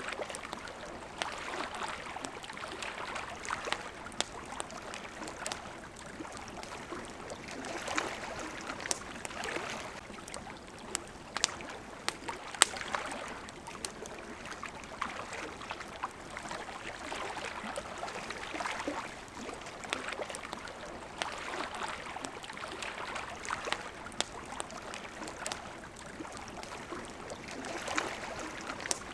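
Small waves lapping at the shore, swelling and falling back every few seconds, with a campfire crackling and popping in sharp, irregular snaps throughout.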